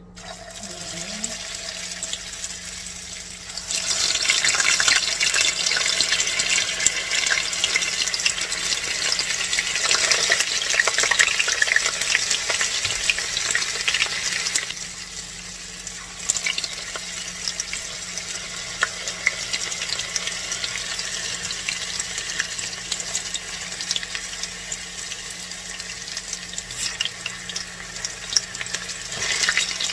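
Tofu and wonton-wrapped tuna dumplings shallow-frying in hot oil in a small pan: a steady sizzle with many small crackles. It gets louder about four seconds in, eases off about fifteen seconds in, and picks up again near the end as a spatula turns the pieces.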